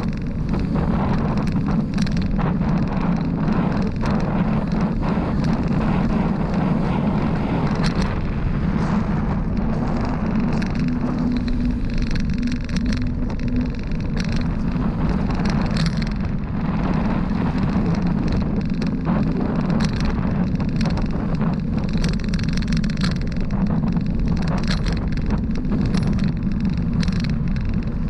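Steady road and wind noise from a bicycle ride along a highway, with many small clicks and rattles throughout.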